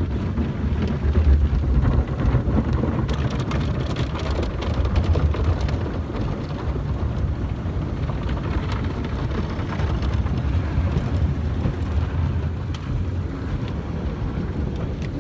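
Automatic car wash working over a car, heard from inside the cabin: a steady rush and low rumble of water spraying and pattering on the body.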